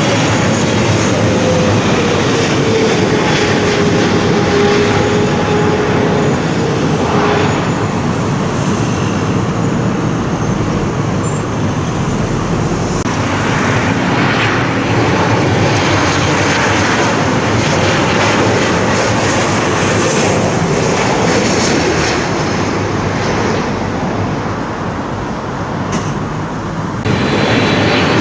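Jet airliner on final approach passing low overhead: a steady, loud engine rush, with a whine that falls slowly in pitch over the first few seconds.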